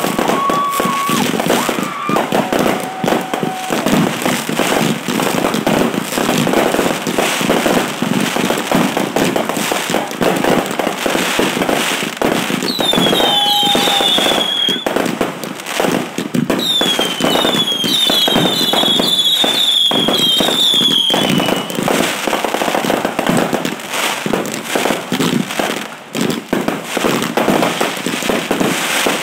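A dense, continuous barrage of fireworks, rapid bangs and crackles with no let-up. Shrill falling whistles from whistling fireworks cut through it in two spells around the middle.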